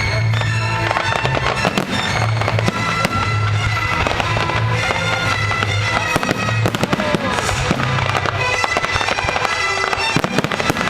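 Fireworks going off in rapid, irregular bangs and crackles, over music with steady held notes.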